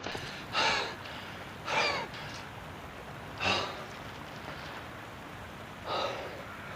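A person's sharp, gasping breaths: four short gasps, spaced a second or two apart.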